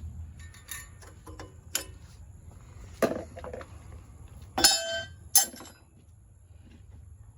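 Metal hand tools and engine parts clinking and clanking in separate sharp knocks; about two-thirds of the way in, two louder ringing metallic clanks.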